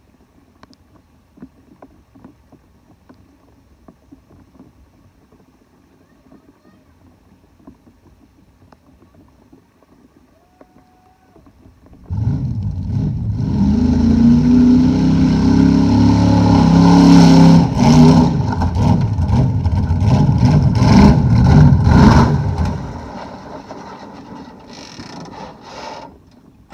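Faint background for about twelve seconds, then a homemade monster truck's engine comes in suddenly, running loud and revving for about ten seconds before dying away over the last few seconds.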